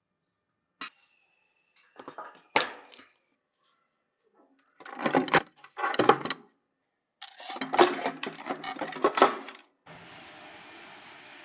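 Workshop handling noise: a sharp click, then several bursts of metallic clinking and clattering, as of small metal parts or tools being handled. Near the end a steady, even hiss with a faint hum sets in.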